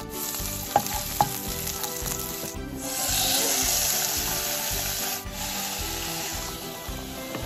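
Chopped garlic and curry leaves sizzling in hot oil in a non-stick wok, with two light clicks about a second in. The sizzle grows louder about three seconds in as sliced raw chicken breast goes into the pan and is stirred with a wooden spoon.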